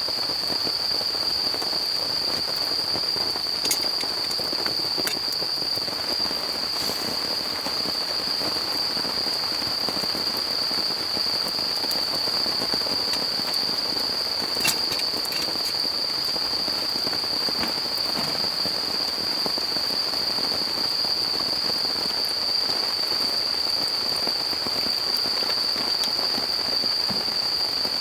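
Steady rain falling, with an insect trilling on one unbroken high note and a couple of sharp ticks, about four and fifteen seconds in.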